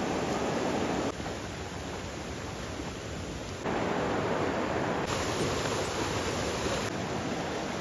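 Steady rushing noise of water, an even hiss like heavy rain or a fast river. It steps abruptly quieter about a second in, and louder again a little past halfway.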